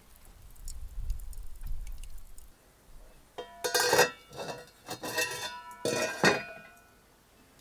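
Dishes and cutlery clinking: a run of sharp knocks with ringing metallic tones, clustered in the middle seconds, after a low rumble near the start.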